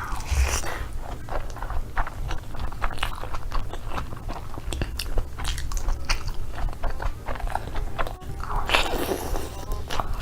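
Close-up eating sounds: crisp fried chicken skin being bitten and chewed, with many short crunches and crackles.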